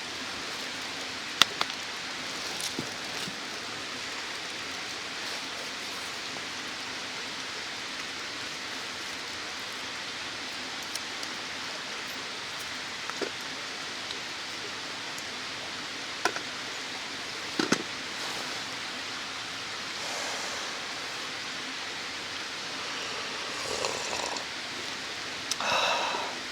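Mountain stream rushing steadily, with a few sharp clicks and knocks and a brief rustle near the end.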